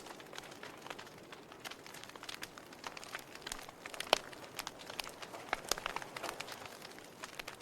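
Wood fire in a fireplace crackling: irregular sharp pops and snaps of burning logs over a faint steady hiss, with the loudest snap about four seconds in.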